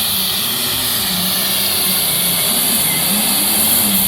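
A pulling vehicle's engine running hard under full load as it drags the weight-transfer sled down the track, its note wavering up and down.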